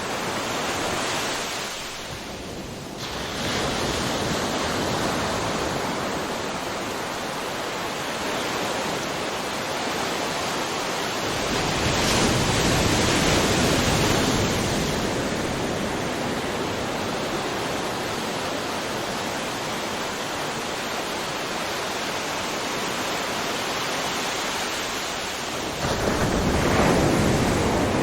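Ocean surf: continuous rush of waves breaking and washing in. A bigger wave crashes about eleven seconds in, and another comes in suddenly near the end.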